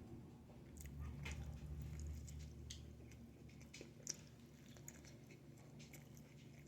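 Faint chewing of a mouthful of pizza, with scattered soft wet mouth clicks.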